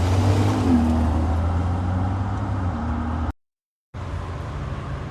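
Steady low road and engine noise of a car driving. It cuts out completely for about half a second, three and a half seconds in, then comes back quieter.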